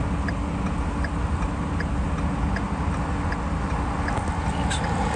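Vehicle indicator flasher clicking steadily, about twice a second, over the low rumble of an idling engine.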